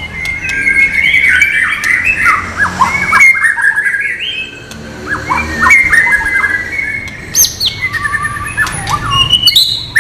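White-rumped shama (murai batu) singing a rapid, varied song of chirps, trills and whistled slides, with a short lull about halfway through.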